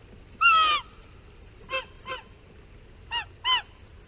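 Goose-like honking calls: one long honk about half a second in, then two pairs of short, bent honks.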